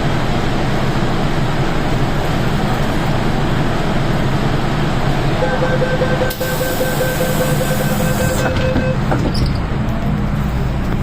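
MTR M-Train metro running on the Tseung Kwan O Line, a steady rumble of wheels and motors. A steady high tone comes in a little past the middle and stops about three seconds later.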